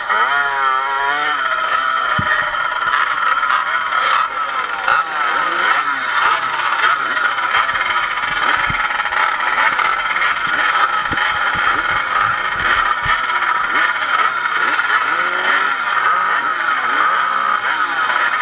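Off-road motorcycle engine running close to the microphone, its pitch rising and falling as the throttle is blipped and eased, with the sharpest revving about a second in.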